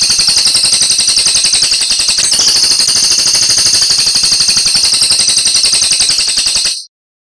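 Oriental magpie-robin (kacer) singing a loud, high, rapid rattling run of notes, about eight a second, that cuts off abruptly near the end.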